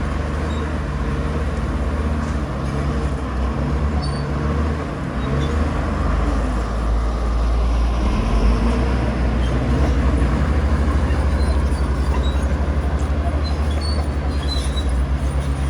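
Heavy diesel engine of earthmoving machinery running under load, a low steady rumble that grows louder about halfway through.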